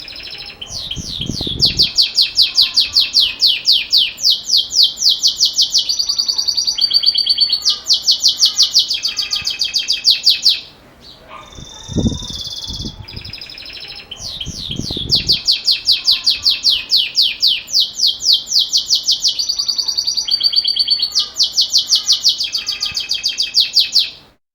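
Belgian canary singing its metallic 'campainha' (bell) song: long trills of rapid repeated high notes in two phrases, with a short pause about ten seconds in.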